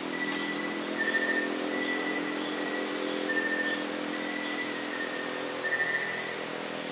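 A steady, even motor hum runs over a steady hiss, with short high chirps repeating about every half second.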